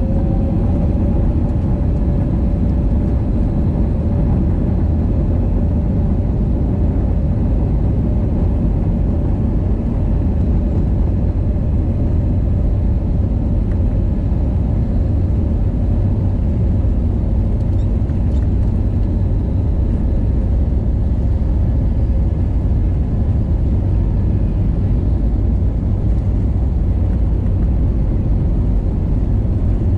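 Steady cabin noise of an Airbus A320neo in flight: a loud, even, deep rumble of engines and airflow, with a faint steady hum.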